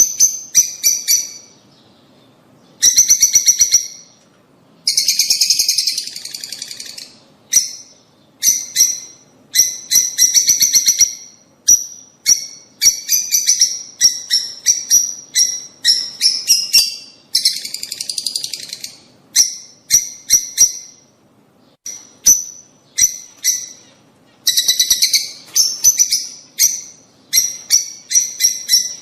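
Lovebirds chirping: rapid runs of sharp, high-pitched chirps in bursts of a second or two, separated by short pauses, with a few denser, harsher stretches of chatter.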